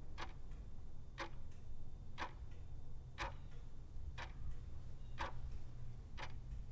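A clock ticking once a second, evenly and steadily, over a low hum: the kind of ticking-clock sound effect laid under a quiz question while it waits for an answer.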